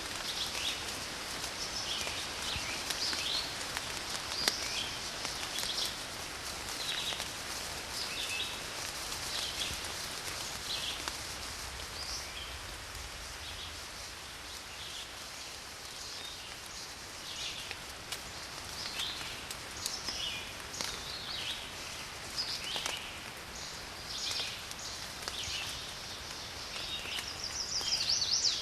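Steady rain falling, with birds chirping in short calls throughout; a louder, quicker run of notes comes near the end.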